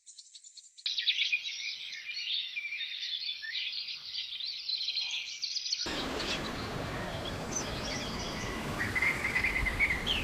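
Songbirds chirping and singing in a dense chorus. About six seconds in the sound cuts abruptly to a steady rushing noise, with bird calls continuing over it.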